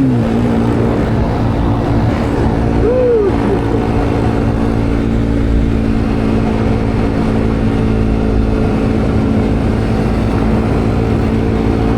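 Motorcycle engine running at a steady pace while riding, with wind rushing over the microphone. The revs drop right at the start, then hold an even note.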